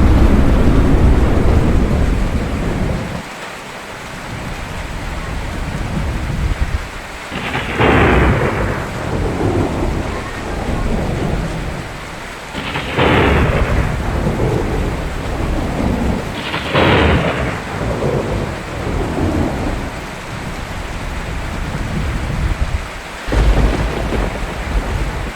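Thunderstorm with steady rain: heavy rumbling thunder at the start, then three sharp thunderclaps spread through the middle, each rolling off into rumbling, and another low rumble near the end.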